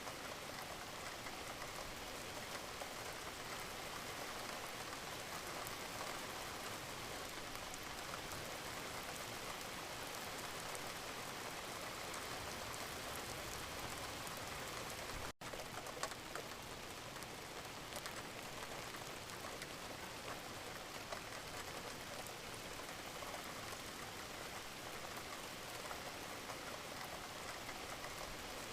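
Steady gentle rain falling on a surface, an even hiss dotted with the ticks of individual drops. The sound drops out for a split second about halfway through, followed by a slightly sharper drop tick.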